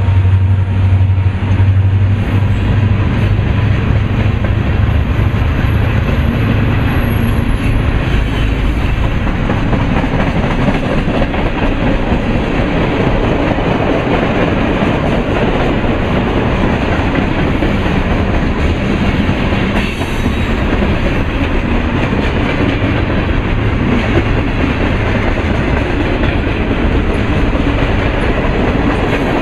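Freight cars of a long mixed freight train rolling past close by: a steady loud rumble with the wheels clattering over the rails. A faint high squeal is heard briefly a few seconds in.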